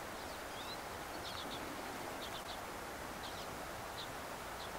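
Quiet woodland ambience: a steady hiss with faint, short high chirps from small birds about once a second.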